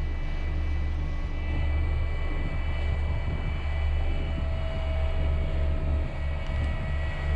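Heavy farm machinery engine running steadily: a deep, even drone with a steady high whine above it.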